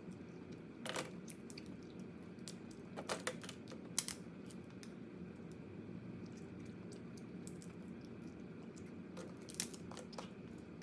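Crab shell being cracked and picked apart while eating: scattered light clicks with a few louder cracks.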